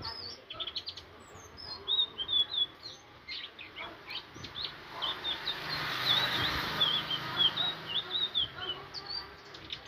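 Indigo flycatcher (sikatan ninon) singing: a rapid run of short, high twittering and chirping notes, with a soft hiss swelling in the middle.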